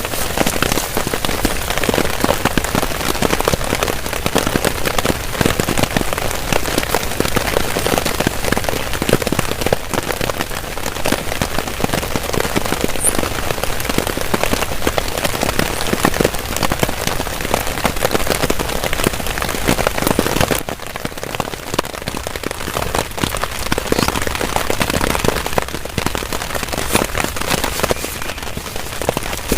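Heavy rain hitting a tarp shelter, a steady dense patter of individual drops. It eases slightly about two-thirds of the way through.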